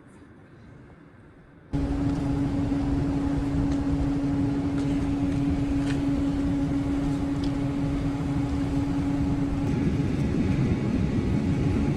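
A vehicle's running noise: a steady rumble with a low held hum, which comes in abruptly about two seconds in after a quiet start. The hum drops out near the end while the rumble continues.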